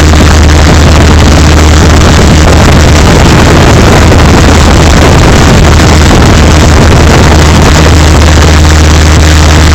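Cessna 152's four-cylinder Lycoming O-235 engine and propeller droning steadily, heard inside the cabin. The recording is overloaded, so the drone is loud and distorted.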